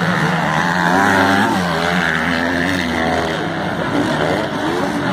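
Several racing motorcycles, 250 and 450 cc open-class bikes, revving on the track, their engine notes rising and falling in pitch.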